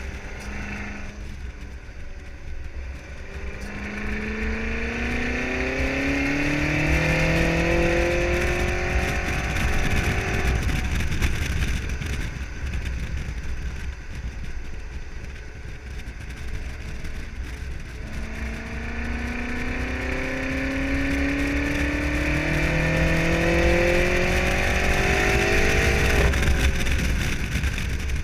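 BMW M5 30 Jahre's twin-turbo V8 with Akrapovič exhaust accelerating hard twice, its pitch rising steadily for several seconds each time before cutting off suddenly.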